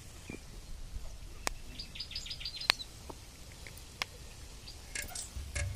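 A small bird chirping, a quick run of short high notes about two seconds in. Over it come a few sharp clicks, one of them as fingers pinch a crown flower (Calotropis) bud.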